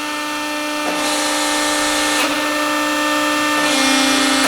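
Accurpress 175-ton CNC hydraulic press brake running through a bend cycle: its hydraulic pump hums steadily while the ram and back gauge move, with a hissing whirr that swells about a second in, a click just after two seconds, and a slightly lower pitch with more hiss near the end.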